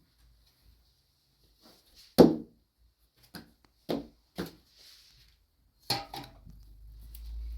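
Several sharp knocks and clatters, the loudest about two seconds in, then a low rumble near the end.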